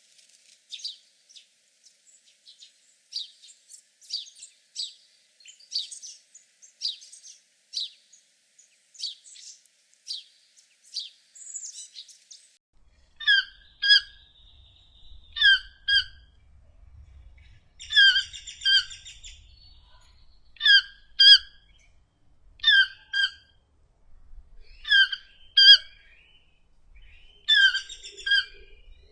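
High, thin bird chirps repeating, from budgerigars and then a rusty-margined flycatcher. After about twelve seconds they give way to the louder, sharp, paired calls of a fiery-billed aracari, repeated every second or two.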